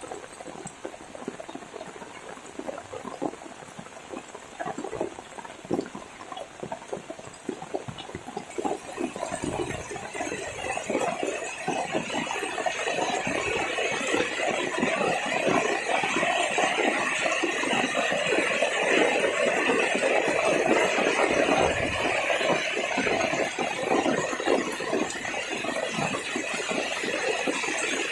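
Heavy rain falling: separate drops and spatters at first, then heavier and denser from about a third of the way in.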